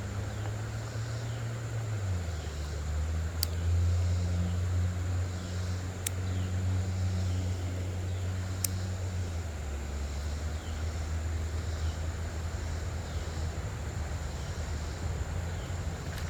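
A low, steady engine drone that drops in pitch about two seconds in and shifts again near ten seconds, with crickets chirping faintly over it and three faint ticks.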